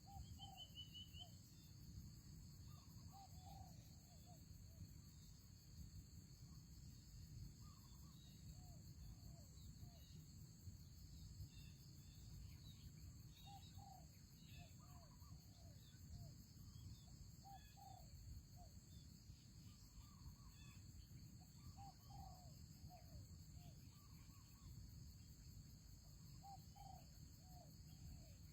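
Spotted doves cooing faintly, a short phrase of three or four low notes every four to five seconds, over a steady high drone of insects.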